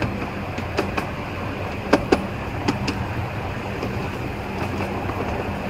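Miniature railway train running along the track, heard from aboard an open carriage: a steady rumble and low hum, with three pairs of sharp clicks as the wheels pass over rail joints.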